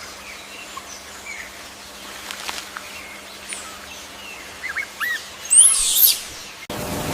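Birds chirping: scattered short high calls, with a louder run of quick, twisting notes about five and a half seconds in. The sound cuts off suddenly near the end.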